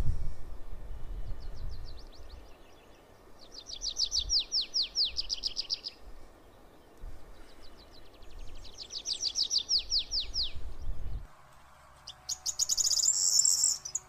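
A small bird singing three rapid trills of quick falling notes, the last one higher-pitched, over a low rumble that stops abruptly partway through.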